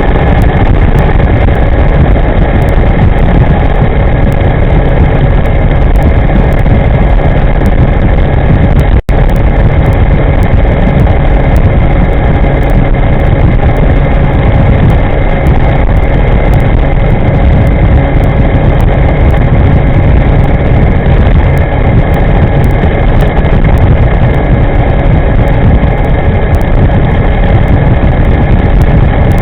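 Steady, loud rush of wind and road noise from riding an electric scooter at speed, with no engine sound. It cuts out for an instant about nine seconds in.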